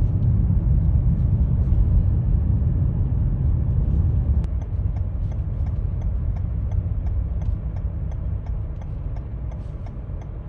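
Car road and engine rumble heard from inside the cabin while driving on snow-covered roads, easing off somewhat toward the end. From about halfway through, a light regular ticking at roughly two to three a second comes in.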